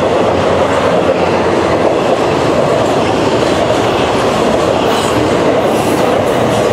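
Intermodal freight train rolling past, flatcars loaded with highway trailers and containers: a loud, steady rolling noise of steel wheels on the rails.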